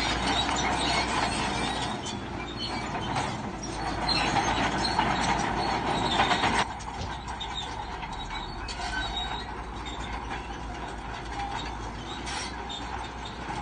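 Shantui crawler bulldozer working, its engine running under a loud squeal and clank of steel tracks. The sound drops sharply about six and a half seconds in and goes on more quietly.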